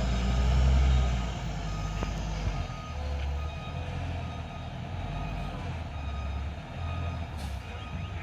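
Truck's reversing alarm beeping repeatedly over the low rumble of its engine as the truck backs down after failing the climb. The engine is loudest in the first second.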